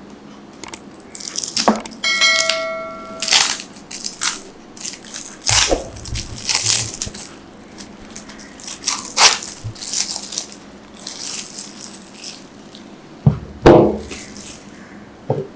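A knife cutting glycerin soap: a series of separate slicing, scraping and cracking strokes, with a short ringing tone about two seconds in and a couple of louder thuds near the end.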